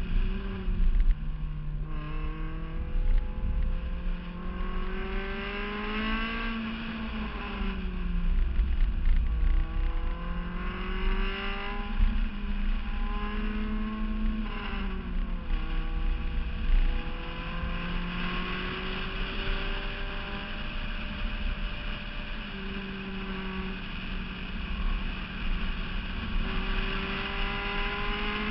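Honda S2000's four-cylinder engine pulling through the gears at track pace: its pitch climbs, drops at each gear change and climbs again, several times over. Heavy wind rumble on the exterior-mounted microphone runs underneath.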